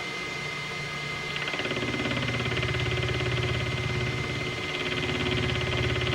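Belt-drive PM30 milling machine running with a steady whine; about a second and a half in, the chamfer cutter bites into the workpiece and cuts with a fast, even chatter that dips briefly near the end and picks up again.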